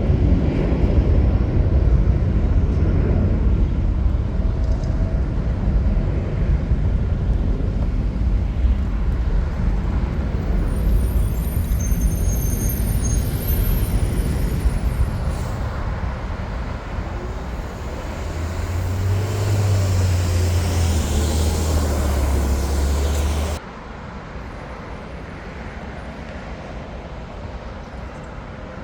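Jet airliner engines rumbling loudly, with a thin high whine in the middle, slowly easing. A deep low hum swells near the end and cuts off abruptly, leaving a quieter steady airport background.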